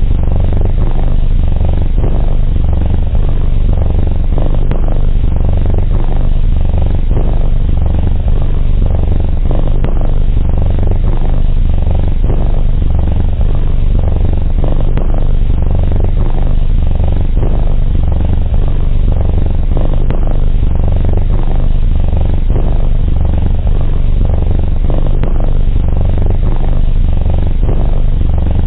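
Domestic cat purring close up: a steady, loud, low rumble that swells and eases in slow regular cycles with the cat's breathing.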